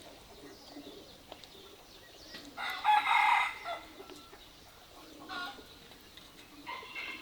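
Rooster crowing: one loud crow about a second long, beginning about two and a half seconds in, followed by shorter, softer chicken calls.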